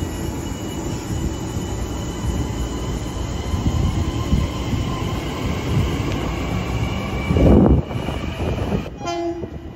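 Long Island Rail Road train running past on the rails: a steady rumble with a faint, steady high whine. A brief louder swell comes about three-quarters of the way through, then the noise thins near the end.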